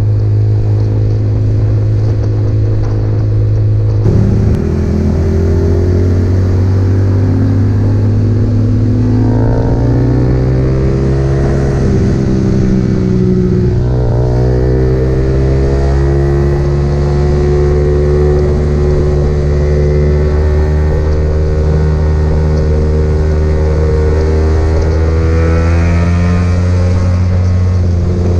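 Motorcycle engine running steadily while riding. Its pitch shifts about four seconds in, dips and climbs again between about ten and sixteen seconds in, then rises slowly as it gathers speed.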